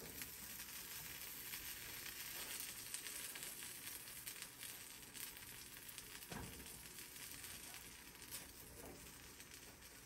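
Faint sizzle of a butter-fried sourdough grilled cheese sandwich cooking in a frying pan, with a soft knock from the spatula pressing it about six seconds in.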